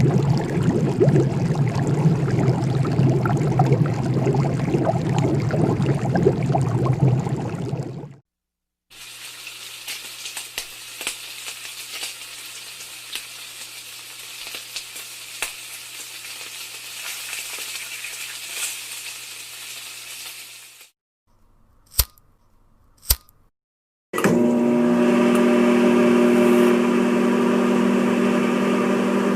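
A series of kitchen sound effects. First, about eight seconds of a loud, noisy appliance sound with a low hum. Then food sizzling in a pan with scattered crackles for about twelve seconds, two sharp clicks, and a steady humming appliance.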